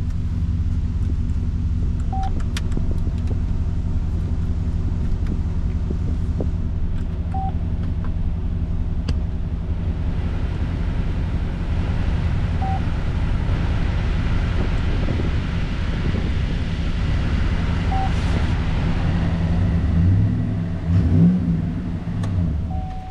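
The 2011 GMC Sierra 1500's 5.3L V8 running at a steady idle, with a short high beep about every five seconds. About twenty seconds in, the engine is revved briefly, rising and falling, before it settles.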